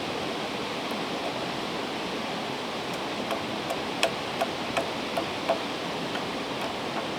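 A river rushing steadily, with a run of about seven sharp clicks in the middle, the loudest about four seconds in.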